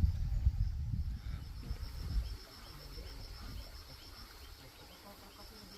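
Insects trilling, a fast, high pulsing trill that carries on steadily. A low rumble with bumps covers the first two seconds, then drops away.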